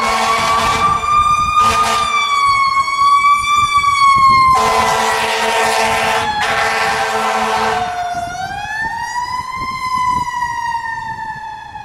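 Emergency vehicle siren wailing, its pitch slowly rising and falling, with two long blasts of a lower, steady horn over it, the second ending a little before the siren dips and climbs again.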